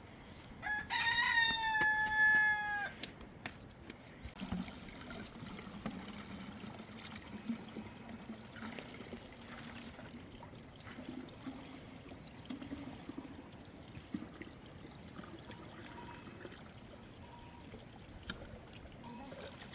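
A rooster crowing once, a single call of about two seconds near the start. After it comes a faint low steady background sound with scattered light clicks.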